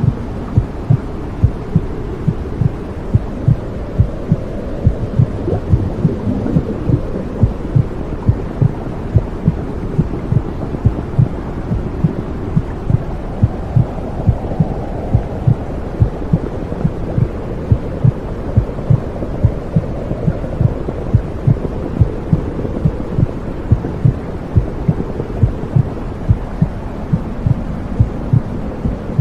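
Womb sound for soothing a baby: a steady, muffled low whooshing rumble with a heartbeat thumping regularly through it, about two beats a second.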